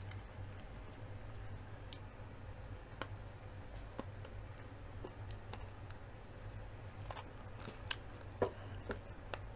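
Close-miked chewing of crispy deep-fried chicken, with scattered small crunches and mouth clicks every second or so, over a faint steady low hum.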